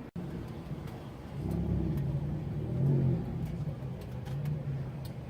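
Ferrari 360 Challenge Stradale's V8 engine running, getting louder about a second in and rising briefly to a light rev near the middle.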